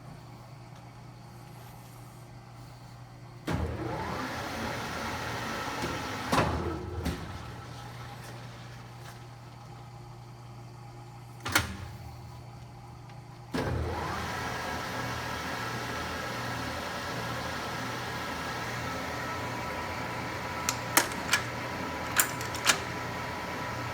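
Metal lathe motor switched on and spinning up, running, then winding down. A sharp metal clink follows, then the lathe starts again and runs steadily, with a few sharp ticks near the end.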